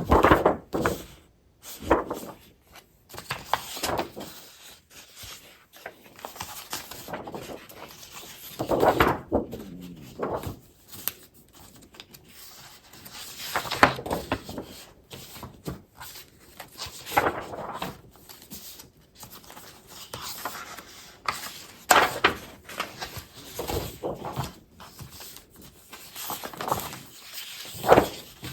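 Scrapbooking paper and craft supplies being handled: irregular rustling, crinkling and sliding of paper and packaging, with occasional soft knocks as items are set down.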